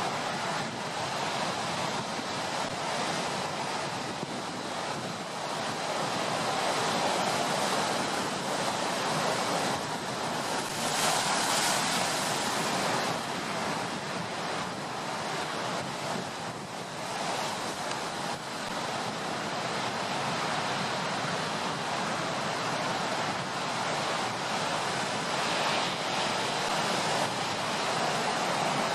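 Heavy surf on a stormy sea: a continuous rush of breaking waves with wind, swelling with a louder crash about eleven seconds in and another around sixteen seconds.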